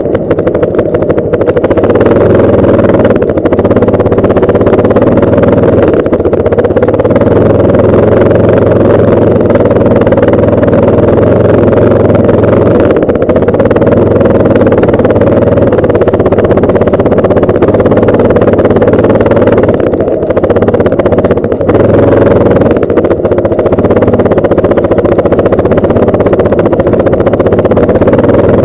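Yamaha Lander 250 single-cylinder motorcycle being ridden: a steady engine hum under a loud, continuous rush of wind over the microphone.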